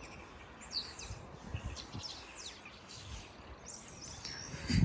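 Small birds calling outdoors: short, high, downward-sliding chirps several times over faint outdoor background noise. There are a few soft low thumps, the strongest near the end.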